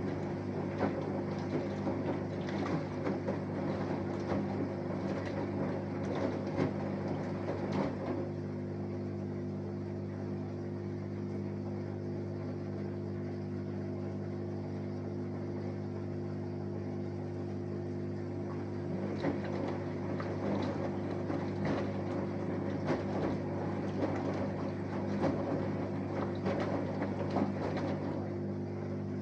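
Samsung Eco Bubble front-loading washing machine with an inverter motor running a wash: a steady hum under the churning and sloshing of laundry and water in the turning drum, which stops for several seconds around the middle and then resumes.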